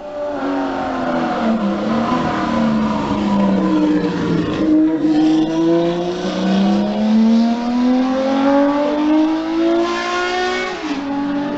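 Benelli Sei 750's six-cylinder engine running through its exhaust as the bike accelerates, the pitch climbing steadily, then dropping sharply about eleven seconds in, as at a gear change, and climbing again.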